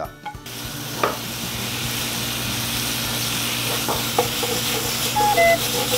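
Sliced fish cake (eomuk) hits a hot oiled frying pan over high heat with garlic, carrot and soy sauce, and sizzles suddenly about half a second in. The sizzle stays steady while a wooden spoon stirs it, with a few clicks of the spoon against the pan.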